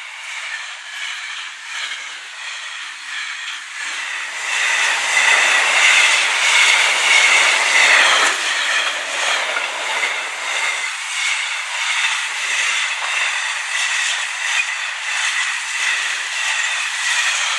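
Container wagons of a freight train running past over the rails, a steady clatter of wheels on track. It grows louder about four seconds in and eases off after about ten seconds.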